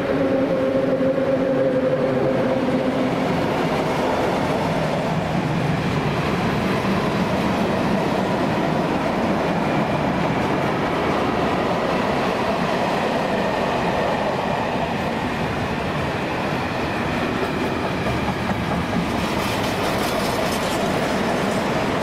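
A train passing along the track: a steady rumble of wheels on rail with clickety-clack. In the first few seconds the held note of its horn fades out.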